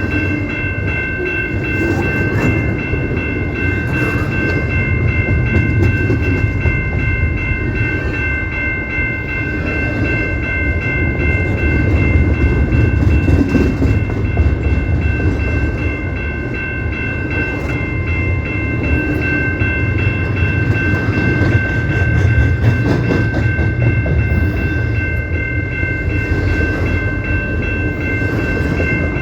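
CP Rail train rolling past with a steady low rumble of wheels and cars, and a constant high-pitched tone held unbroken the whole time.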